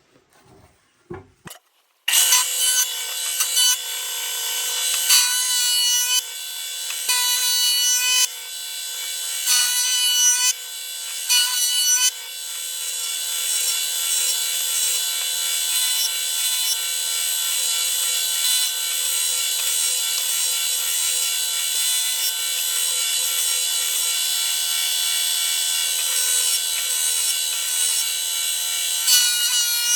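Electric planer running and shaving a reclaimed wooden beam, starting about two seconds in. For the first ten seconds or so the sound changes in short passes, then it holds steady.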